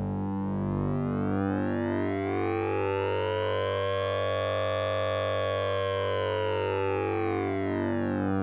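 Synthesizer sync-and-ring sound effect from the Orange Vocoder VST plug-in. A steady low drone sits under a cluster of overtones that sweeps slowly up in pitch, peaks about halfway through and glides back down.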